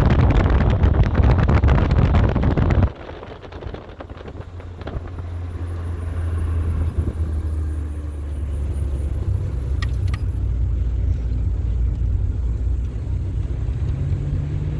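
Loud wind buffeting the microphone, cut off abruptly about three seconds in. It gives way to the steady low drone of a motor vehicle running, slowly getting a little louder.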